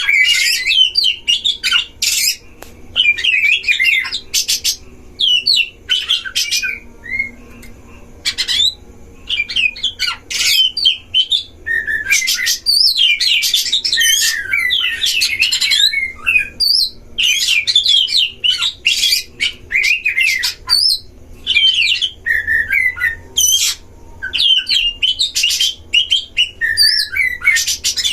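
Oriental magpie-robins singing: a loud, varied run of whistled phrases mixed with harsh, scratchy chatter, coming in bursts of a second or two with short pauses between.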